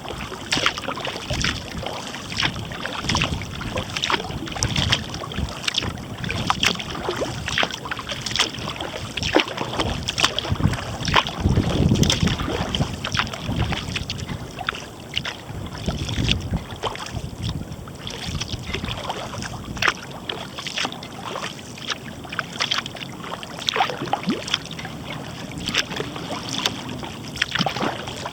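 Kayak paddle dipping and splashing, with many small irregular splashes and drips off the blades, over low wind rumble on the microphone that swells about twelve seconds in.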